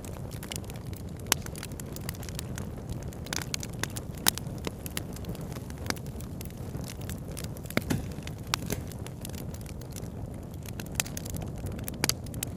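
Campfire crackling, with sharp irregular pops and snaps, over a steady low rush of flowing river water.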